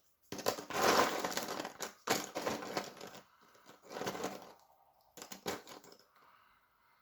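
Cardboard jigsaw puzzle pieces being stirred and rattled by hand, a dense clatter of small clicks coming in four or five bursts of about a second each.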